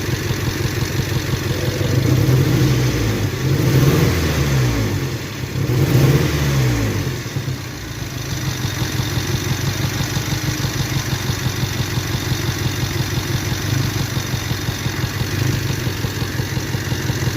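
A 1998 Toyota 4Runner's four-cylinder engine is blipped three times, rising and falling, in the first seven seconds or so, then settles back to a pulsing, uneven idle. The engine is misfiring on one cylinder, which the scope and a later P0302 code put down to cylinder number 2.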